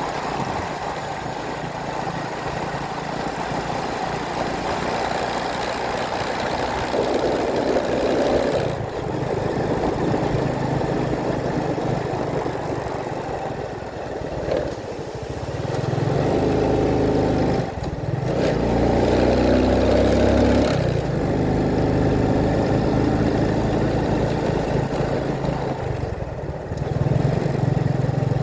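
Vehicle engine running on the road, its pitch rising and falling as the speed changes, over steady wind and road noise.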